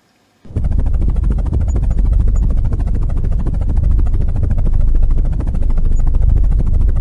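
Helicopter rotor blades chopping rapidly over a turbine's rush, loud and steady, cutting in abruptly about half a second in.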